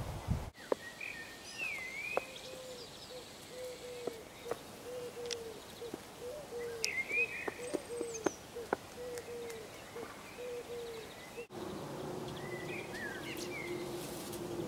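Birds chirping and twittering, with an even run of short low calls, about two a second, through most of it and a few sharp clicks.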